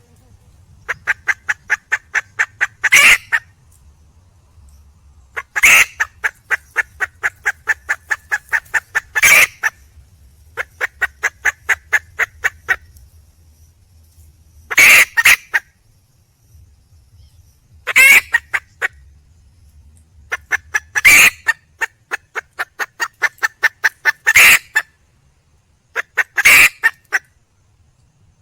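Red junglefowl hen calling: runs of quick, sharp clucks, about six a second, each run ending in a louder harsh call, repeating every few seconds. This is the hen's call for a mate.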